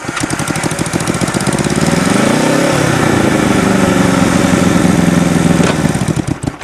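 Go-kart's motorcycle engine starting and running loud, revving up and back down about two to three seconds in, then stalling near the end with a few last uneven beats: the clutch was not pushed down far enough.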